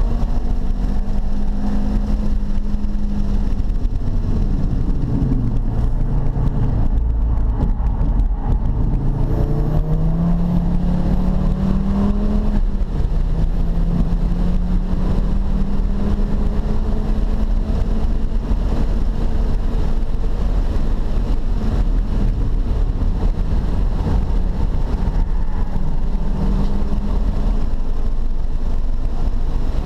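Car engine heard from inside the cabin at speed, its note climbing as it accelerates and falling away as it slows, with a sudden drop in pitch about twelve seconds in. A steady low rumble runs underneath.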